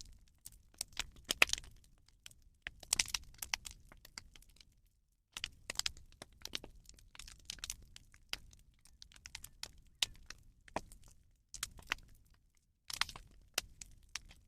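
Bonfire of burning rubbish crackling, with irregular sharp snaps and pops. The sound cuts out completely twice, once a little before halfway and once about three-quarters through.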